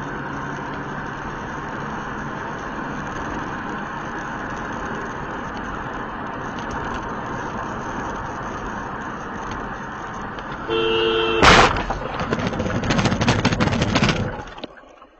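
Steady road and engine noise of a moving car. About ten seconds in, a car horn sounds briefly and is cut off by a loud crash of impact, followed by a few seconds of crunching and rattling.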